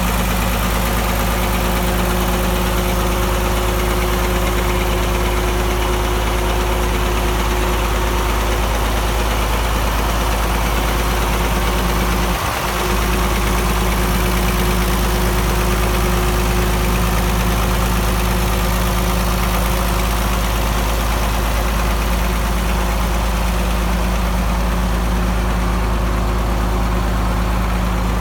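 Case 930 tractor engine idling steadily, dipping for a moment about halfway through.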